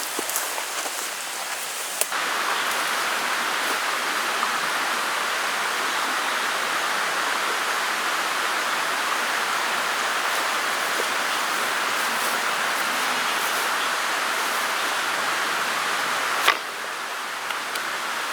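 Steady rain falling in a continuous even hiss, with a sharp click about two seconds in and another near the end, after which it is a little quieter.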